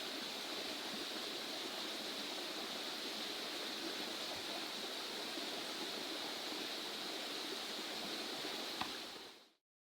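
Steady rushing outdoor ambient noise, a hiss like flowing water or wind, that fades out quickly near the end.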